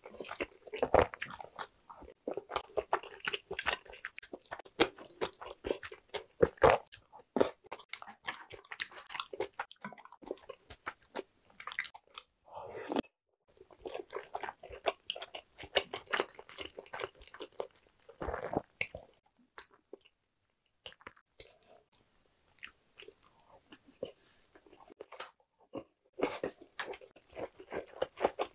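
Close-miked eating sounds: chewing and biting of soft rice cakes and boiled eggs in thick spicy sauce, with wet mouth noises and small clicks, irregular throughout and easing off for a moment about twenty seconds in.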